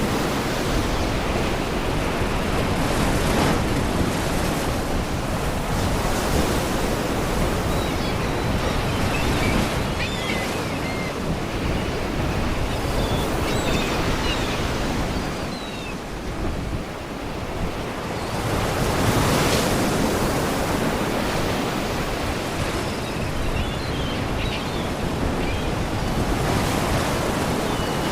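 Sea waves breaking and washing against rocks: a continuous surf noise that swells and eases every several seconds. Faint short gull cries come through the surf about eight to fourteen seconds in and again later.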